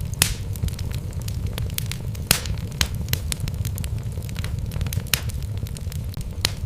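Wood logs burning in a fireplace, crackling with irregular sharp pops over a steady low rumble of the flames. A few louder snaps stand out: one just after the start, one a little past two seconds in, one about five seconds in, and one near the end.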